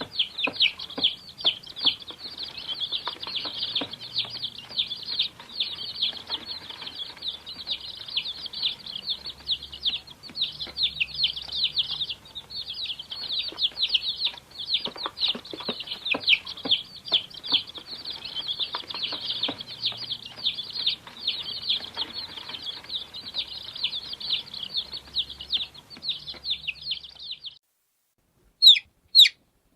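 Baby chickens peeping: a dense chorus of high, overlapping cheeps that cuts off suddenly near the end, followed after a short gap by a few separate, louder peeps.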